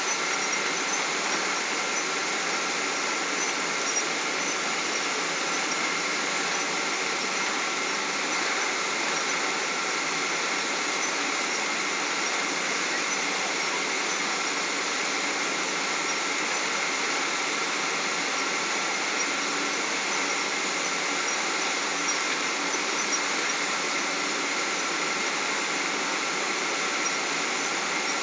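Boeing 777 jet engines and airflow heard from inside the passenger cabin: a steady rushing noise with a thin, even whine over it.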